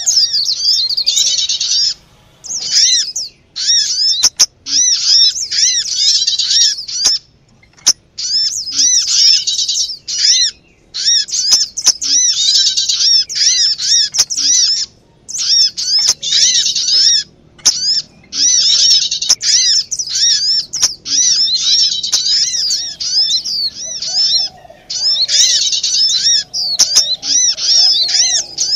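Small birds calling noisily in an agitated chorus, a bird-lure recording: fast runs of sharp, high chirps in bursts of a second or two with brief pauses between. Such alarm-style chatter is used to draw other small birds in.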